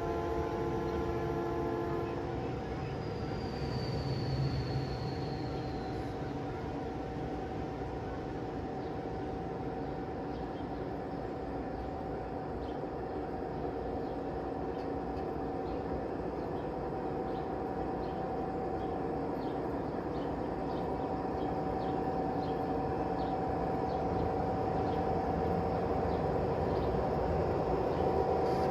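Train horn sounding a chord that cuts off about two seconds in, then the train running steadily with a steady hum and regular clicking, growing slightly louder near the end.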